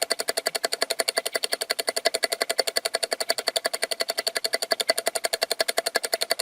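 Rapid, perfectly even clicking, about ten clicks a second, steady throughout.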